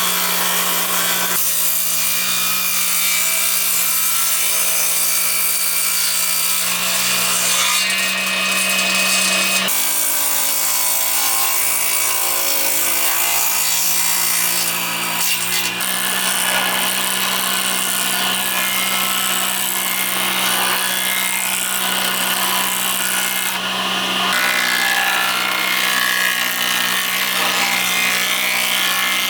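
Electric power tool running steadily while working wood, a constant motor hum under a loud rasping, hissing cut. The sound shifts abruptly a few times.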